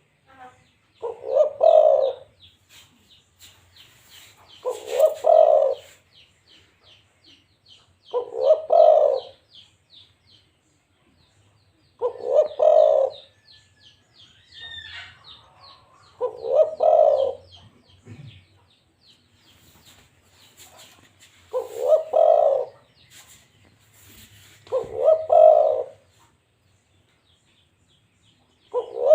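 Spotted dove (balam) cooing: a low coo phrase of about a second, repeated every three to five seconds, seven times. Small birds chirp faintly behind it in a fast, high trill.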